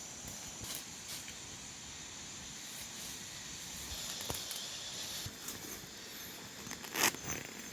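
Forest ambience: a steady high insect drone, with scattered rustling and clicks and one louder crunch about seven seconds in.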